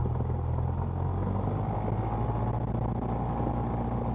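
Cessna 172's piston engine and propeller running steadily at 1700 rpm for the pre-takeoff run-up.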